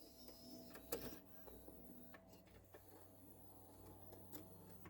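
Faint mechanical clicks over a low steady whir from a car stereo's CD drive. The disc is in but will not play.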